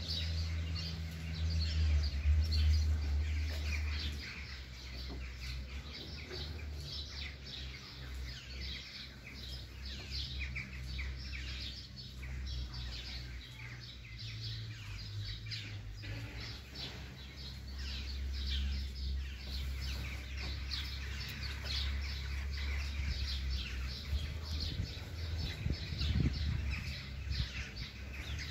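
Many small birds chirping and twittering without a break, over a low rumble that swells in the first few seconds and again about two-thirds of the way through.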